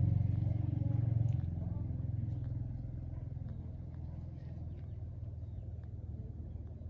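Old gasoline engine running steadily, having just started, loud at first and settling slightly over the first few seconds.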